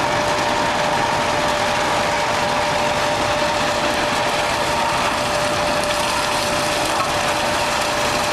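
Large wood chipper and grass crusher running, a dense steady mechanical clatter with a steady high whine over it.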